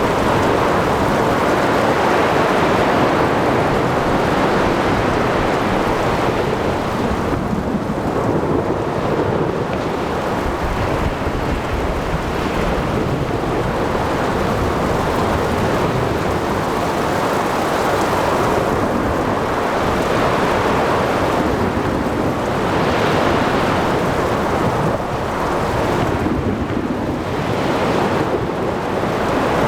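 Ocean thunderstorm ambience: rain and rolling thunder over waves and wind, a dense continuous rushing that swells and eases every few seconds.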